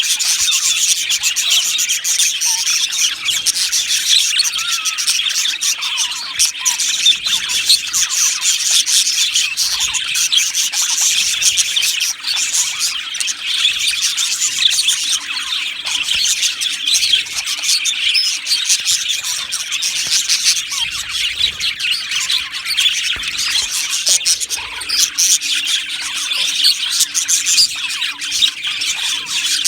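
Many budgerigars chirping and chattering at once: the dense, unbroken warble of a budgie colony.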